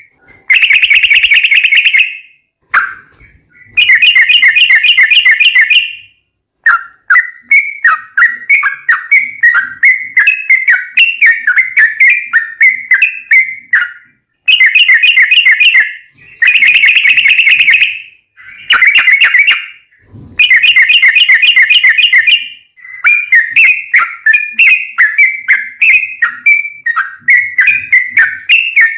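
Yellow-vented bulbul (trucukan) song: loud, quick chattering phrases repeated with short breaks, running into long rolling strings of rapid notes.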